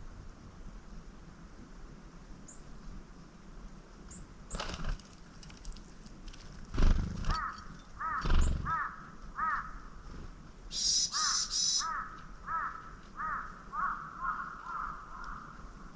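A bird calling two runs of short, evenly repeated notes at about three a second, with a brief high buzzy burst between the runs. A few dull thumps come before the calls, the two around the middle being the loudest sounds.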